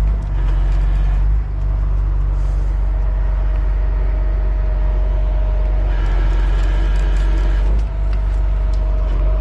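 Heavy tow truck's diesel engine running steadily, with a higher whine that comes and goes over it.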